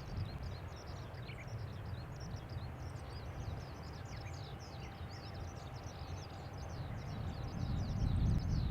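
Distant low rumble of a Boeing 737-800's CFM56-7B jet engines, growing louder near the end, with birds chirping rapidly and continuously over it.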